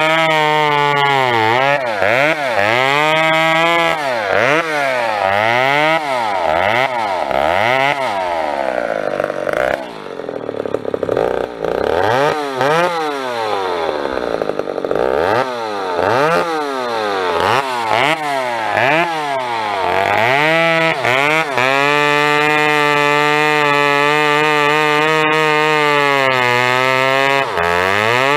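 Two-stroke chainsaw revved up and down over and over, its pitch sweeping high and low many times. About ten seconds in it runs lower and rougher for a few seconds, then near the end it holds a steady high rev.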